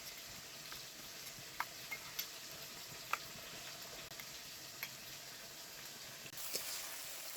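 Chicken frying in a pan with a steady sizzle, and light scattered clicks of a spoon beating yogurt and spices in a bowl. The sizzle grows brighter near the end.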